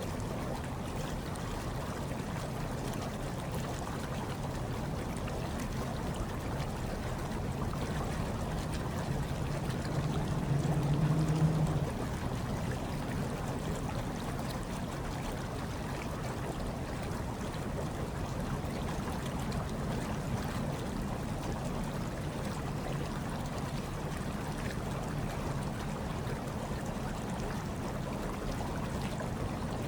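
Steady churning, bubbling hot tub water with a low hum underneath, briefly louder about ten seconds in.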